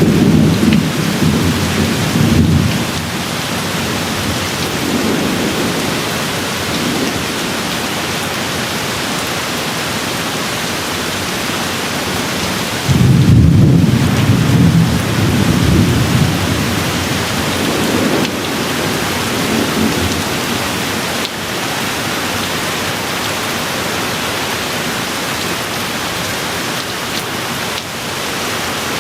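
Steady rain falling, with rolling thunder: a rumble dying away in the first couple of seconds, then a sudden loud rumble about thirteen seconds in that rolls on for a few seconds, and a fainter one shortly after.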